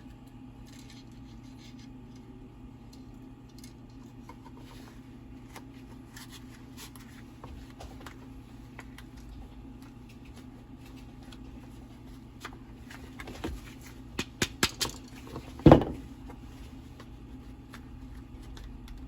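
Clicks and knocks of angle-grinder parts being handled and fitted together during reassembly, sparse at first, then a quick run of sharp clicks and one loud knock about three-quarters of the way through. A low steady hum runs underneath.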